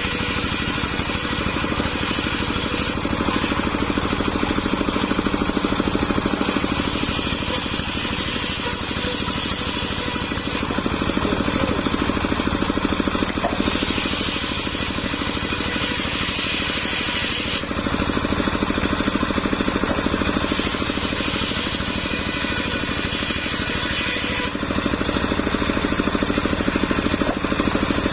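Homemade engine-driven circular saw running steadily while ripping sengon wood. The sound changes and grows slightly louder in spells of about three to four seconds, repeating roughly every seven seconds as the blade takes each cut.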